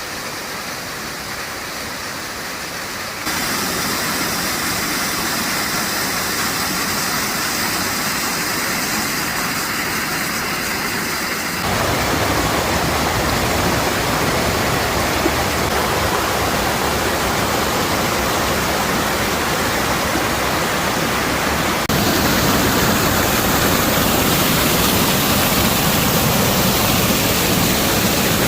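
Waterfall rushing, a steady full noise of falling water that jumps louder in abrupt steps about three, twelve and twenty-two seconds in.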